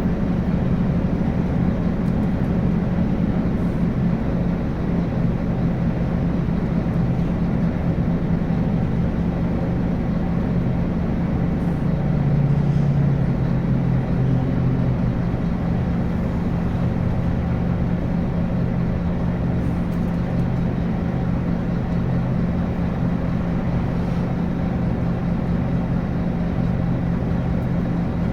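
Scania N280UB city bus's nine-litre five-cylinder diesel running steadily under way, with a brief change in engine note about twelve seconds in.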